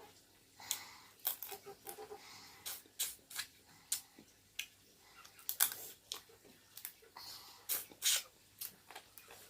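A person eating: irregular sharp clicks, smacks and crunches of chewing and biting, coming every half second or so.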